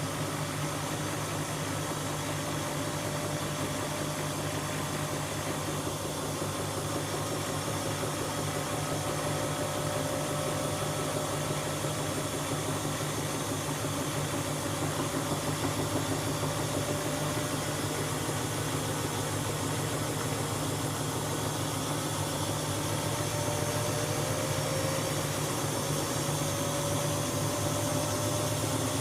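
Siemens Siwamat washing machine running, a steady motor hum with a fainter whine that rises slightly in pitch and grows a little louder toward the end.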